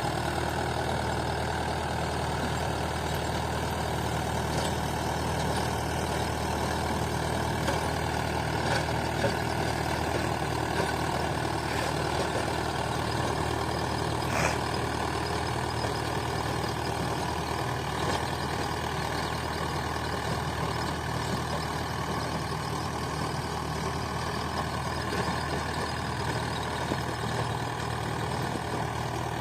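Mahindra 575 DI tractor's four-cylinder diesel engine running steadily while driving a 7-foot rotavator, with a few faint ticks from the implement.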